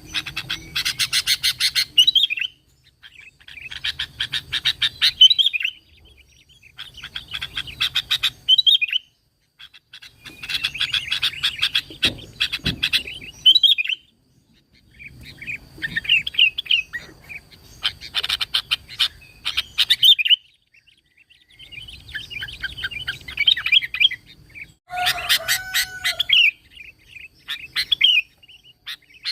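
Sooty-headed bulbul (kutilang) singing in repeated bursts of rapid chattering notes, each a couple of seconds long and mostly ending in a clear slurred note, with short pauses between, about eight times.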